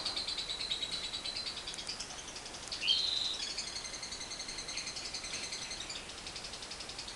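A lovebird's long, rapid chattering trill (ngekek), with a louder short call about three seconds in.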